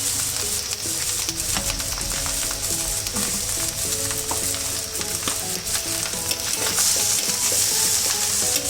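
Fried rice sizzling in an oiled pan as it is stirred, with a steady high hiss and frequent short scrapes and clicks of the spatula against the pan.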